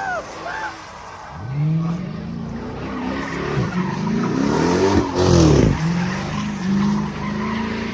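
Car engine revving up and down several times with tyres screeching as the car does a burnout, the revs highest about five seconds in and then held steadier.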